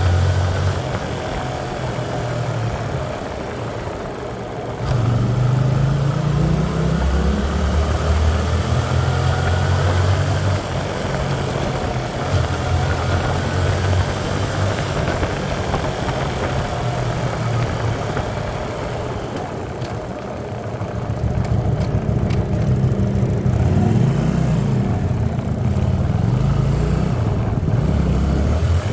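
Aquila 125 motorcycle engine running while riding, its pitch rising and falling with the throttle and gear changes.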